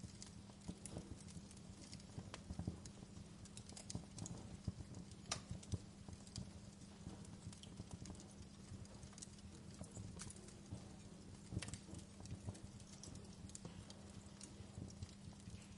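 Wood fire crackling in a fireplace: irregular sharp pops and snaps, a few louder than the rest, over a low steady background.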